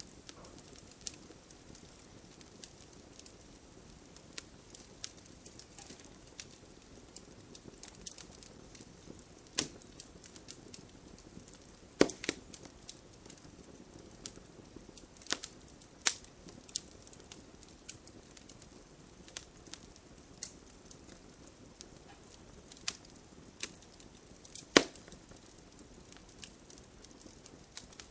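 Fire crackling in a fireplace: irregular sharp pops and snaps over a low steady hiss. The loudest pops come about twelve seconds in and again near the end.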